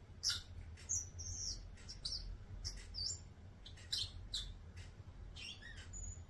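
Turquoise parrot (Neophema pulchella) twittering: a string of short, high chirps and whistled notes, some sliding down in pitch, coming in irregular bursts.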